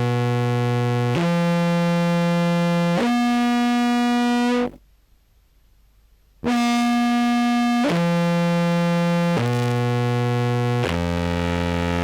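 Contrabass clarinet in its low register played through a Fuzz Page Mark II fuzz module, giving a thick, buzzy distorted tone. Long held notes step upward three times, break off for about a second and a half, then step back down through four notes.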